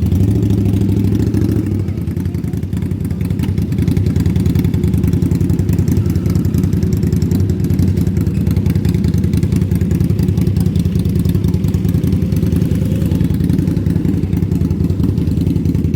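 Superbike engine idling steadily, a low, even pulsing note with no revving.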